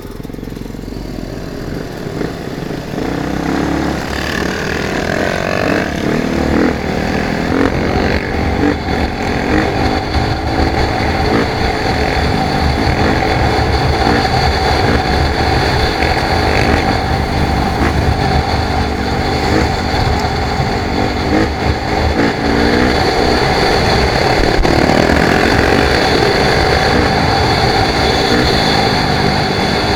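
Off-road motorcycle being ridden, its engine revs rising and falling with the throttle over a steady low rumble, growing louder over the first few seconds.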